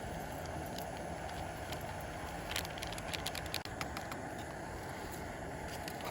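Steady rain falling, with scattered drops ticking sharply.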